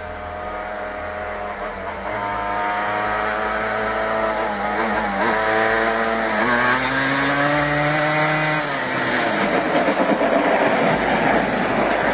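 A vehicle engine running and revving, its pitch dipping twice around five and six seconds in, then rising and falling again, getting louder overall.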